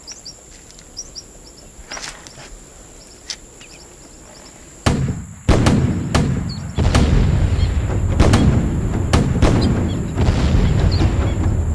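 Birds chirping over a quiet background. About five seconds in, a sudden burst of gunfire and explosions begins: a string of sharp cracks over a heavy, continuing low rumble.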